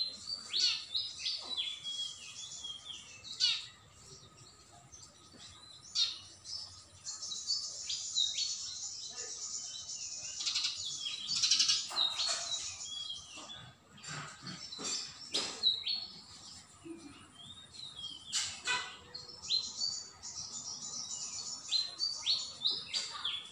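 Small birds chirping: many short, high chirps, some falling in pitch, thickening into dense runs of chatter in the middle and again near the end, with a few sharp knocks among them.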